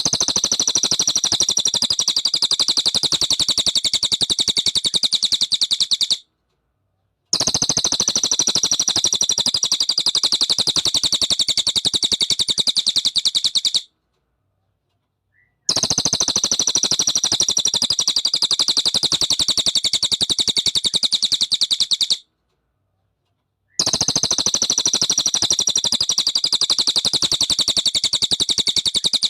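A bird's rapid, buzzing trill in four near-identical bursts of about six seconds, each opening with a falling note and separated by short silences. It is a looped recording played as masteran, training song for white-rumped shamas to copy.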